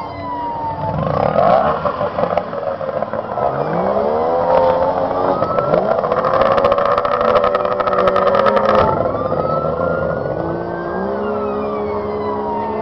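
Several 30 hp outboard motors on tunnel-hull racing boats running hard together, their pitches rising and falling as the boats accelerate and pass; loudest in the middle.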